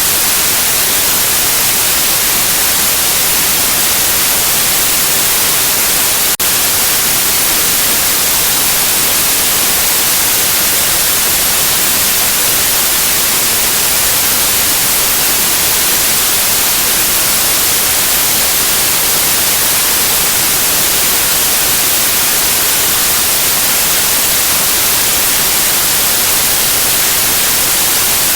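Steady white noise hiss for soothing a colicky baby to sleep, with one brief dropout about six seconds in.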